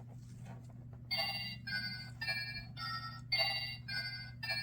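Tinny electronic chime tune from a children's sound-book button, a run of bell-like notes about two a second, starting about a second in, over a steady low hum.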